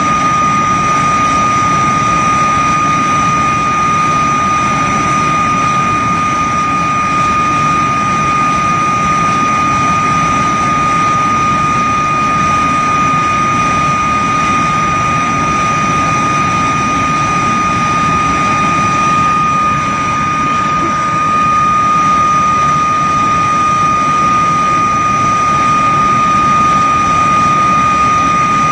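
De Havilland Vampire jet's Goblin turbojet running steadily on a ground run: a loud, even high-pitched whine over a heavy rumble, with a slight dip in loudness about twenty seconds in.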